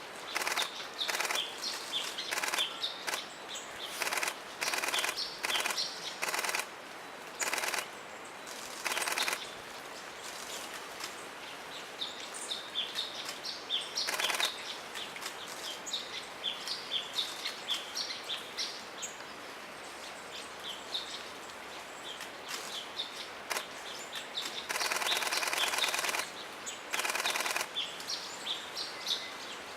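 Camera shutters firing in rapid bursts, over and over, one long burst near the end. Small birds chirp between them.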